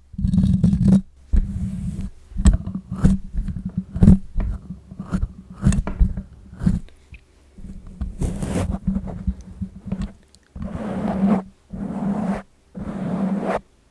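Fingernails scratching directly on a microphone, close and loud with a heavy low rumble from the contact. A quick run of sharp scratches and clicks gives way near the end to slower, even rubbing strokes about once a second.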